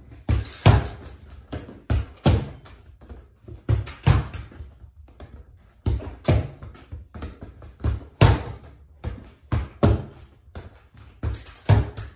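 Soccer ball passed repeatedly against a wall: a steady run of thuds from foot striking ball and ball hitting the wall, about two to three a second, echoing in a small room.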